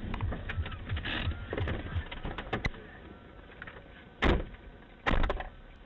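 Rumbling noise with scattered clicks, then two loud thumps about a second apart in the second half.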